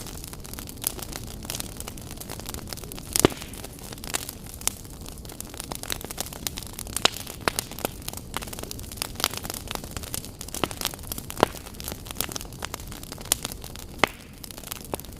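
Wood fire crackling in a fireplace: irregular sharp pops and snaps over a steady low hiss, with one loud pop about three seconds in.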